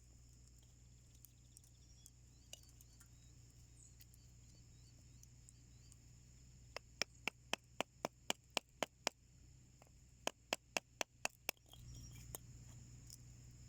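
Firewood crackling in a small homemade wood stove: two quick runs of sharp pops in the second half, over a faint steady background.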